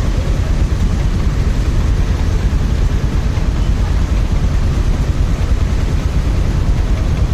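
Motorcycle on the move: steady wind buffeting on the rider's microphone over the bike's engine and road noise.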